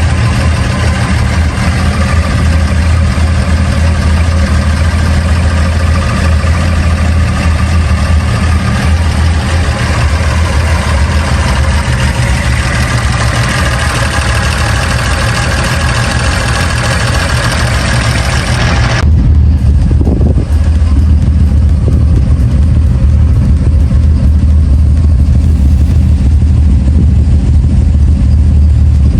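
Nissan Skyline 'Kenmeri' car engine running steadily with a deep, low drone, under a loud, even rushing noise. About 19 seconds in the rushing noise cuts off suddenly, leaving the low engine drone.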